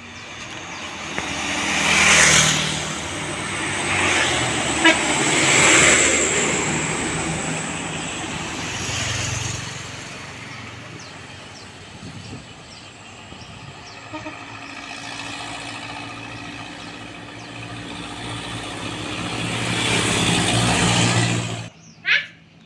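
Heavy road traffic, buses and trucks, passing one after another with steady engine drone that swells as each goes by, and a horn tooting. The last pass-by is cut off suddenly near the end.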